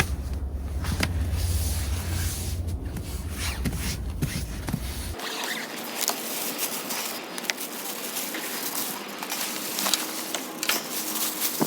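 Rustling and light clicks and knocks of things being handled, over a low rumble that stops abruptly about five seconds in.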